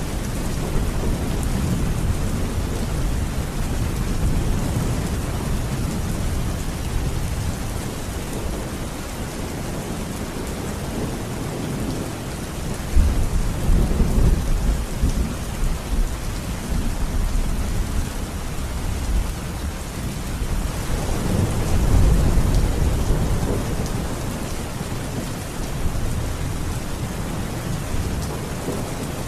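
Steady rain with low, rolling thunder rumbles that swell twice, about halfway through and again a few seconds later.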